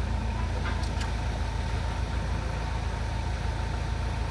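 A widebeam canal boat's inboard engine running steadily as the boat cruises, a low, even drone with a couple of faint clicks about a second in.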